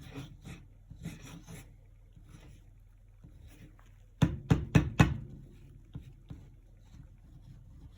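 Paintbrush rubbing and scrubbing on a canvas in short strokes, with four quick sharp taps a little past the middle.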